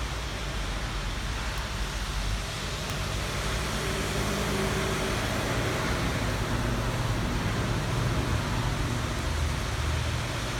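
Steady rainfall hiss with a low rumble of road traffic underneath, swelling through the middle and easing near the end.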